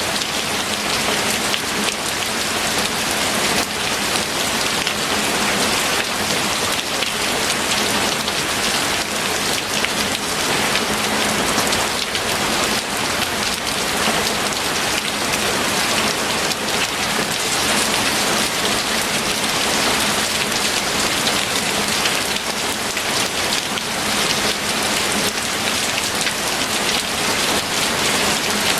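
Steady heavy rain falling on a surface, a dense even hiss full of tiny drop patters.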